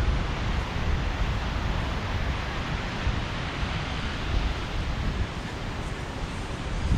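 Surf washing on a beach, a steady roar of breaking waves, with wind buffeting the microphone in low gusts.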